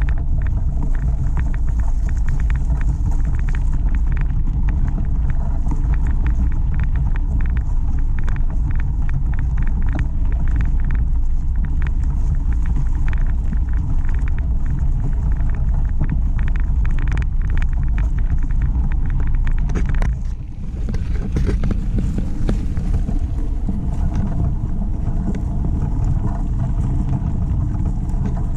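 Bicycle ridden over a bumpy trail: a steady low rumble of wind and tyre noise on the microphone, with constant rattling clicks from the bike jolting over the ground. The rumble drops briefly about twenty seconds in.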